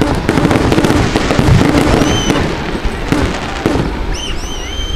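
Aerial fireworks bursting: a dense run of bangs and crackling, loudest in the first couple of seconds. A few short whistling tones come about two seconds in and again near the end.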